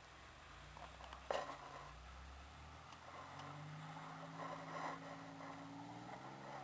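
Distant car engine revving up, its pitch slowly climbing, as the car tries to drive up an icy, muddy driveway with its tires spinning. A single sharp click comes about a second in.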